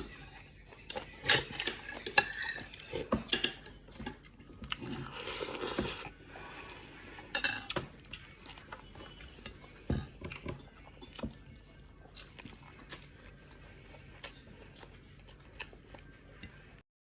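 Scattered clinks and knocks of cutlery against dishes during a meal, irregular and sharp, with a brief louder rustling stretch about five seconds in.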